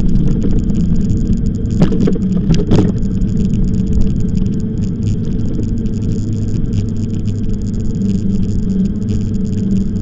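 Steady low rumble of an e-bike on the move, with a low hum throughout and a few sharp knocks or rattles about two to three seconds in.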